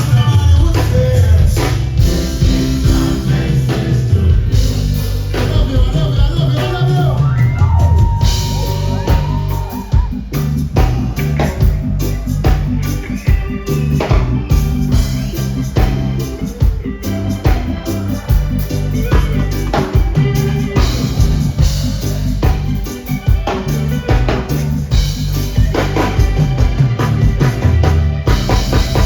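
Live reggae band playing, with a heavy bass line, drum kit and guitar keeping a steady beat.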